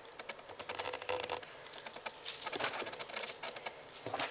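Kittens scuffling with a wand toy: a run of light scratching, tapping and rustling, busier about two seconds in and again near the end.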